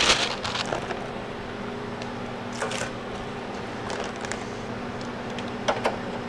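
Parchment paper rustling as it is laid into an aluminium freeze-dryer tray. Then come a few brief plastic-bag rustles and soft taps as blocks of frozen shredded chicken are set on the tray, over a steady low hum.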